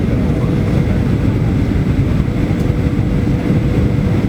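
Steady roar of jet engines and rushing air heard inside an airliner cabin during the approach, low and even, with a faint steady hum running through it.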